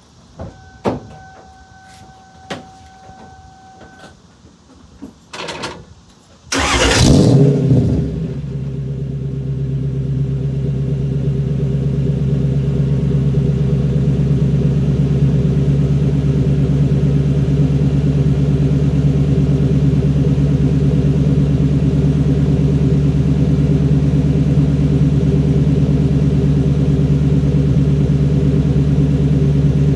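A few clicks and a steady electronic tone, then about six and a half seconds in the Lexus SC400's 4.0-litre V8 starts with a loud flare of revs and settles within a couple of seconds into a steady idle. It breathes through IMF mid-length headers, a Magnaflow X-pipe muffler and 2.5-inch pipes exiting at the side.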